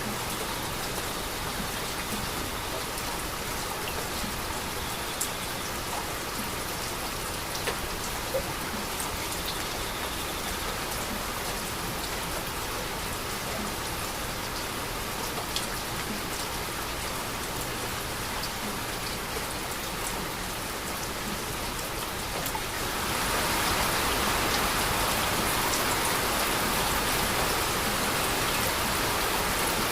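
Steady rain falling, with scattered sharper drop impacts. About three quarters of the way through the rain gets heavier and louder, and stays so.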